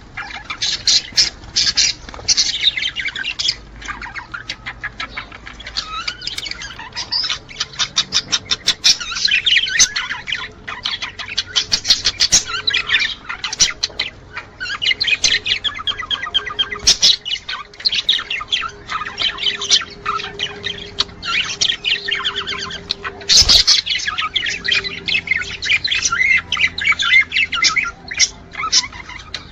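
Budgerigars warbling and chattering without a break: fast twittering, squawks and runs of rapid clicks, with one sharp thump about two-thirds of the way through. This is the breeding-time chatter of male budgies, the kind of sound played to pet budgies to encourage mating.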